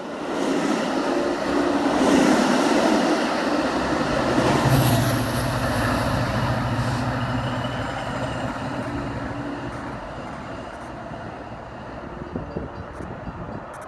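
A train passing on the rails, wheel and engine noise strong at first and gradually fading away in the second half.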